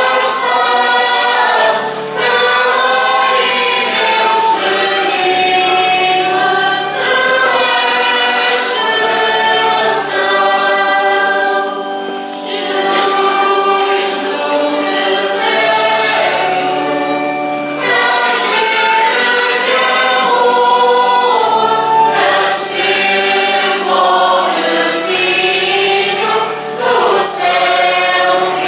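A church choir singing a hymn, with held low accompanying notes that change every second or two beneath the voices.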